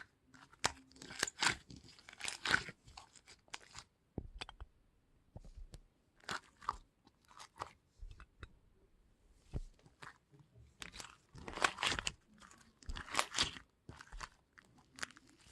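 Irregular crunching and crackling, with clusters of sharp crackles and short crunches and a quieter stretch in the middle.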